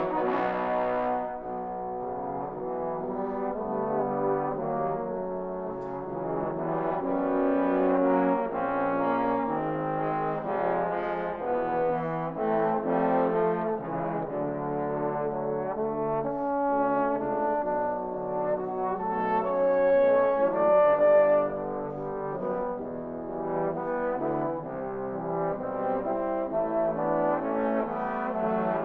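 Trombone ensemble playing a multi-part piece, many trombones sounding chords and moving lines together, with a louder swell about two-thirds of the way through.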